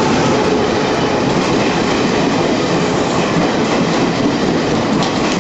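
Passenger train carriages rolling along the platform, a loud steady rumble with wheels clattering on the rails.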